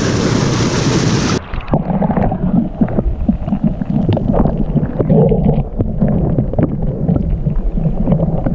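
Wind buffeting the microphone, with water lapping against a kayak. A bright, steady hiss cuts off abruptly about a second and a half in, and uneven low rumbling gusts with small splashes follow.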